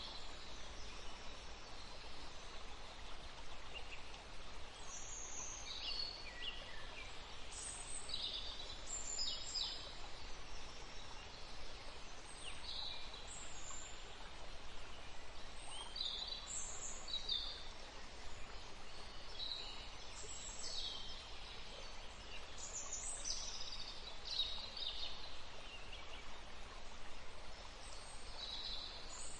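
Forest ambience: birds chirping in short, high calls scattered throughout, over a steady low background hiss.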